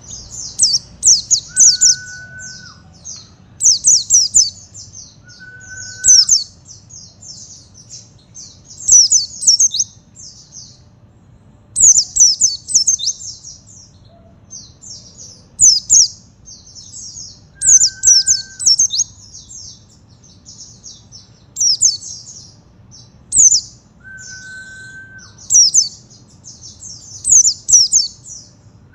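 A pleci (white-eye, Zosterops, 'buxto' type) singing in repeated bursts of rapid, very high twittering phrases, one every second or two. Four times a lower, steady whistle about a second long sounds beneath the song.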